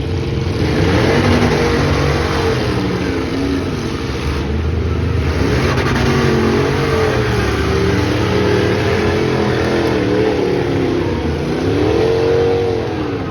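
Several truck and van engines racing together, revving up and easing off, their pitches rising and falling over one another. Near the end one engine swells in a strong rise and fall.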